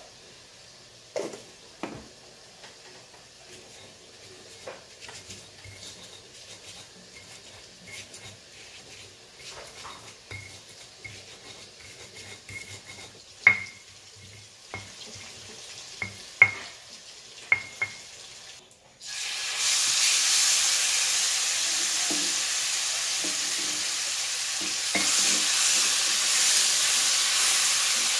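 A stone pestle grinds chilies in a stone mortar, with scattered sharp knocks and taps of stone on stone. About two-thirds of the way through this gives way suddenly to loud, steady sizzling as the ground chili paste fries in hot oil in a pan.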